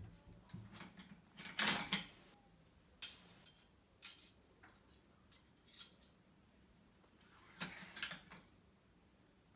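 Cutlery and dishes clinking and clattering as a dishwasher is unloaded by hand: a string of separate clatters with short quiet gaps, the loudest about two seconds in.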